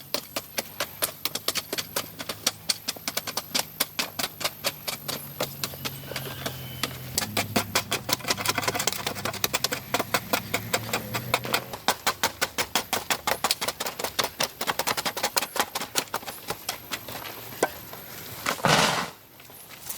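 Rapid, even tapping or clicking, about three taps a second, with a low hum underneath for a while in the middle and a short loud rush of noise near the end.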